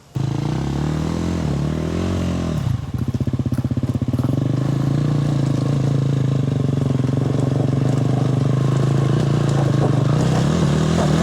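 Enduro dirt bike engine revving under load. The revs rise and fall about two seconds in, dip briefly, then hold steady and high while the bike works up a steep rocky climb.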